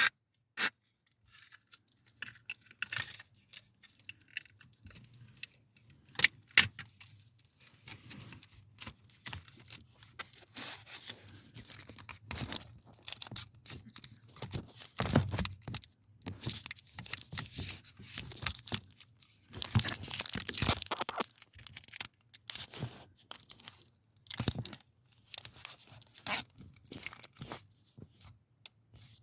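Irregular clicks, scrapes and rustling of plastic parts being handled and fitted by hand, with a few sharper snaps.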